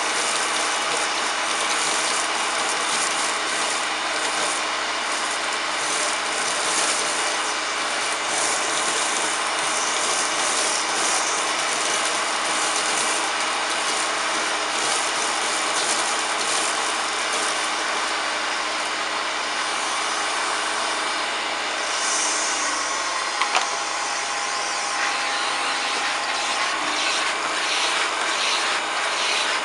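1993 Hoover Turbopower 2 U2464 upright vacuum cleaner running steadily on hose suction, with a scratchy rattle of cornflakes being sucked up. A couple of sharp clicks come about two-thirds of the way through, and the motor's tone shifts there.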